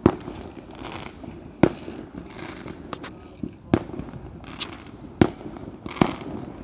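Fireworks going off: about five sharp, loud bangs at irregular intervals of one to two seconds, with several fainter pops between them.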